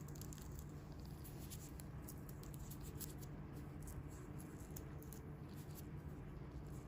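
Faint close-up handling sounds of hands working on bare feet: irregular soft ticks and crackles, several a second, over a steady low hum.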